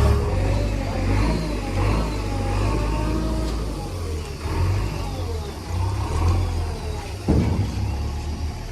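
Heavy diesel engine running and revving, its pitch rising and falling as the machine works, with a single sharp knock about seven seconds in.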